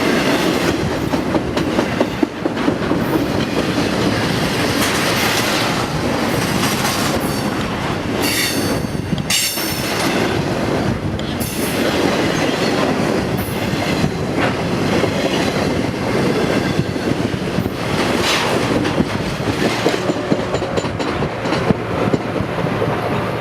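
Train passing close by, its steel wheels clattering over the rails, with brief high wheel squeals about eight and nine seconds in.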